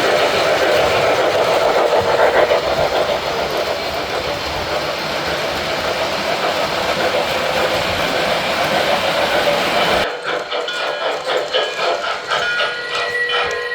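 Model train running on the layout, a steady rumble of wheels and motor. About ten seconds in, the sound cuts off suddenly to quieter scattered clicks and short steady tones.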